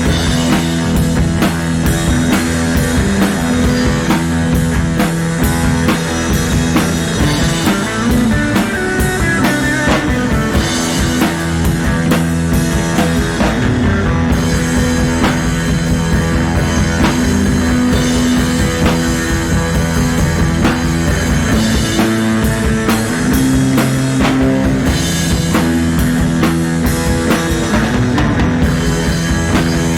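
Psychedelic rock music with a drum kit and electric guitar, playing steadily with a regular beat.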